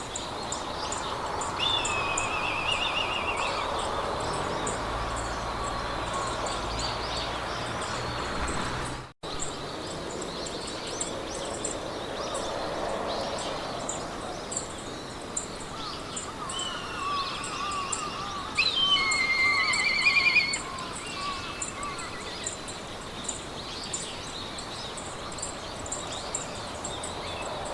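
Meadow ambience: a steady hiss of wind through grass under an insect chirping in a fast, even rhythm, with songbirds singing trilled phrases now and then, loudest about two-thirds of the way in. The sound cuts out for an instant about a third of the way in.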